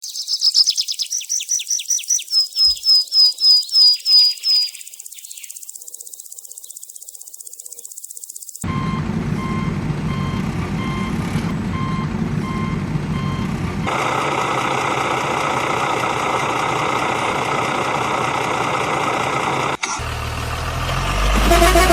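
A vehicle's reversing beeper sounding in evenly spaced beeps over a steady engine-like noise, after a quick run of high chirps at the start.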